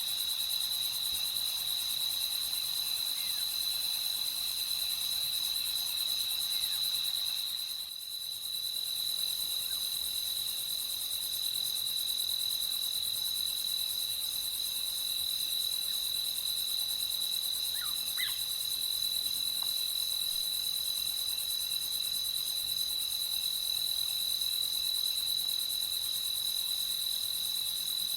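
A steady chorus of crickets trilling, a continuous high-pitched chirring that dips briefly about eight seconds in. A few faint short calls come through near the middle.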